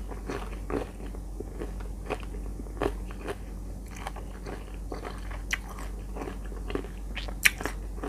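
Close-miked chewing of crisp unripe green mango slices: irregular wet crunches, with a couple of sharper crunches in the second half.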